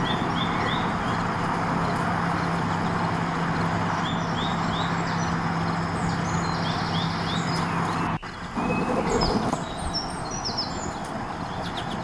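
Small birds chirping in quick runs of two or three short notes over steady outdoor background noise and a low hum. The sound cuts off abruptly about eight seconds in and comes back with a brief louder noise.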